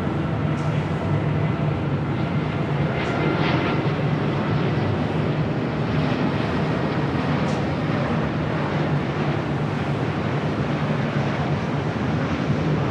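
Jet airliner engines heard from outside as a steady, even noise with a low hum.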